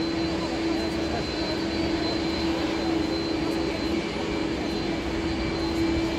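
Airplane engines running with a steady noise, a constant low hum and a thin high whine, holding even throughout.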